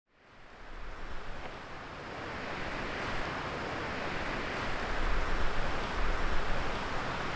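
A steady rushing noise, like wind or rushing water, fades in after a silent cut and grows gradually louder, with a low rumble underneath.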